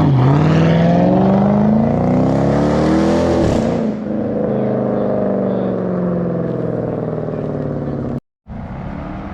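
Dodge Charger R/T's 5.7 L Hemi V8, through a mid-muffler-delete exhaust with glass packs, accelerating hard with its pitch climbing for about three and a half seconds. It then eases off and runs on at a steady, slowly falling drone. The sound cuts out briefly near the end.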